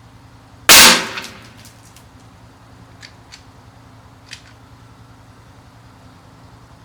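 A single shot from a Savage Mark II TRR-SR bolt-action .22 LR rifle: one sharp crack that dies away within about half a second. A few light clicks follow a couple of seconds later.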